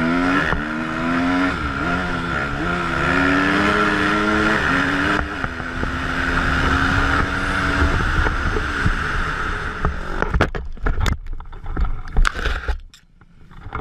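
Dirt bike engine revving, its pitch rising and falling repeatedly, then holding steadier before fading. Near the end come several sharp knocks and scraping.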